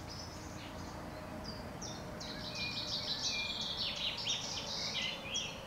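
Birdsong: quick high chirps and trills, starting about a second and a half in and running on, over a faint steady background hiss.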